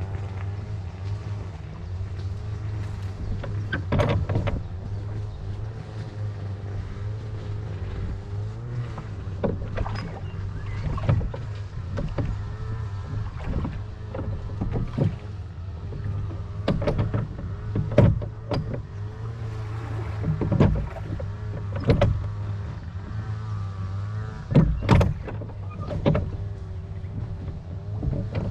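Small rowing boat on a river: irregular knocks and splashes from the oars and water against the hull, every second or two, over a steady low hum.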